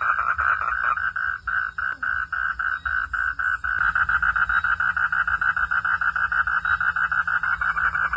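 Frogs calling in chorus: a continuous train of rapid, evenly pulsed calls, about six a second, that thins out between about one and four seconds in and then fills back in.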